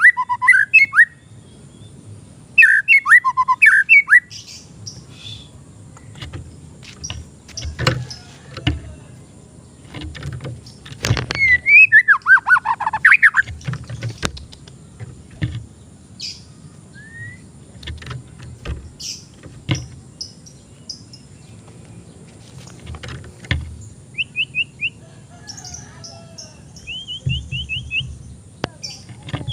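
White-rumped shama (murai batu) singing in short bursts of quick, varied notes, with pauses between phrases. Scattered sharp clicks and a low background rumble run underneath.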